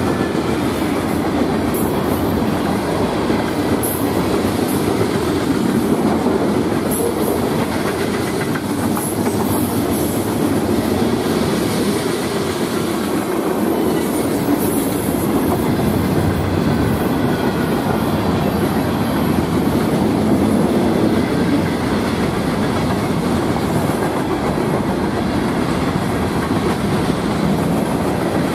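Freight cars of a CSX freight train, a mix of boxcars and hoppers, rolling past. Steel wheels on the rails make a steady rumble and clatter, with a faint high squeal now and then.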